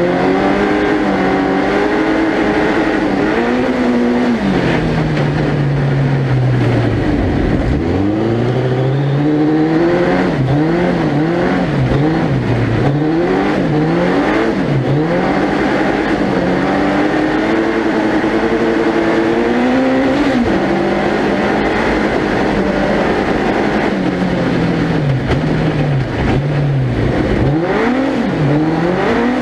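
Suzuki Hayabusa 1300cc inline-four motorcycle engine in a four-wheel-drive ice-racing prototype, revving up and dropping back over and over as the car is driven hard. The pitch climbs and falls repeatedly, with several sharp drops of revs, over a steady rushing noise.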